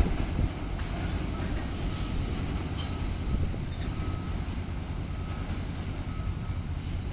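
New York City Subway R68-series train running through the yard, a steady low rumble.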